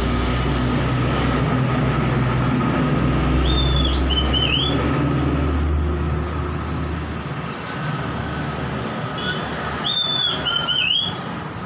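Oriental magpie-robin whistling short song phrases, twice, with quick up-and-down sweeps. A loud low rumble runs underneath and fades out about two-thirds of the way through.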